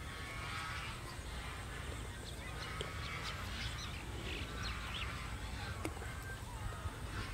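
Birds calling on and off in the distance, fowl-like honks and chatter, over a low steady rumble.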